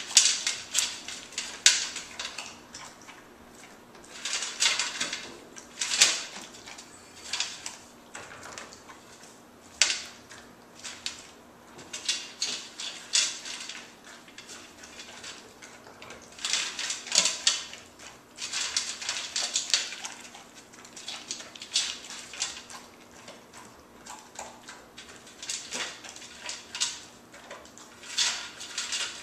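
A dog eating from a bowl: irregular bouts of crunching and clicking, each lasting a second or two, with short pauses between.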